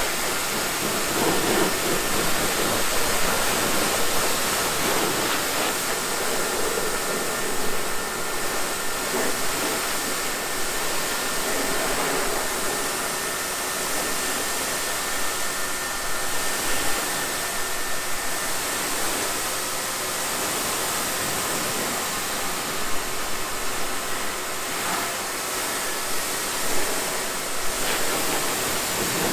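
Pressure washer spraying water in a steady hissing jet, with a faint steady whine from its pump.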